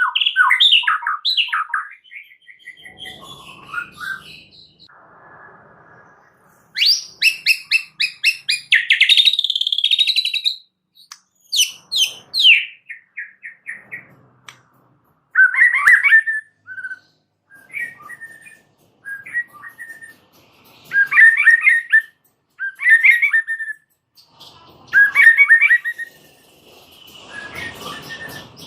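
White-rumped shama (murai batu) singing a varied, chattery song packed with mimicked phrases. Fast whistled phrases and a quick run of repeated notes come in bursts with short pauses between them, and brief harsher chattering bursts follow in the second half.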